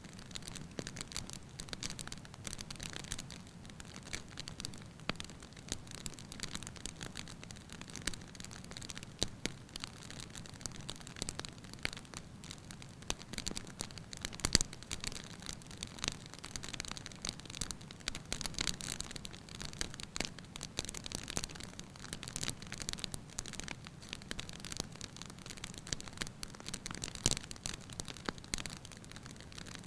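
Wood fire burning in a fireplace: constant irregular crackles and pops over a low, steady rumble of flame, with a sharper pop about halfway through and another near the end.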